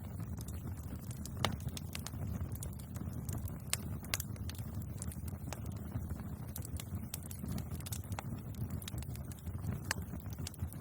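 Bonfire crackling: irregular sharp pops and snaps, several a second, over a steady low rumble.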